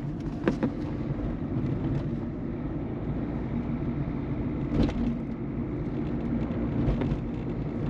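Steady engine and road rumble inside the cabin of a 2008 Peugeot 207 1.4 turbo diesel on the move. A short sharp knock comes about five seconds in, and a lighter one near seven seconds.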